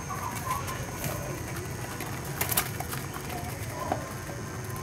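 Faint, short bird calls over a steady low hum, with a few soft clicks about two and a half seconds in.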